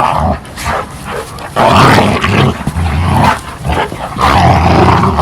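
Big dog vocalising close by, about four long throaty grumbles of around a second each.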